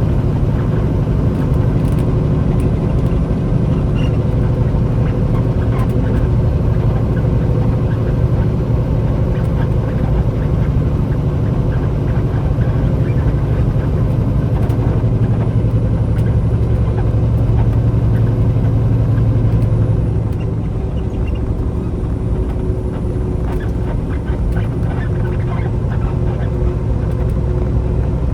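Semi-truck running down the road, its diesel engine and road noise a steady low drone heard from inside the cab. About two-thirds of the way through the drone drops a little, as if easing off the throttle.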